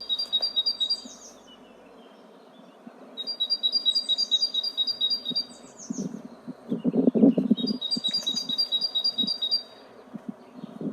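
Birds chirping: rapid trills of short high notes, about ten a second, come back every few seconds, with short down-slurred chirps between them. A low rumble swells briefly in the middle.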